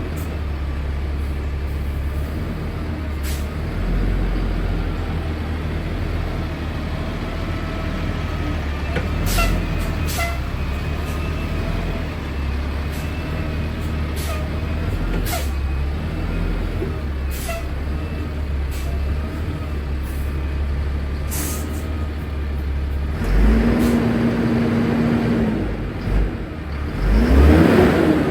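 A 2001 Freightliner FL80 truck's diesel engine running steadily, with scattered sharp clicks. Near the end a louder noise swells up, its pitch rising and then falling.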